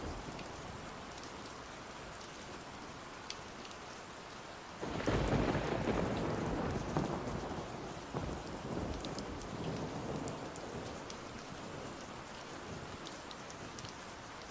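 Steady rain falling, with a roll of thunder that breaks in suddenly about five seconds in and slowly rumbles away over the next several seconds.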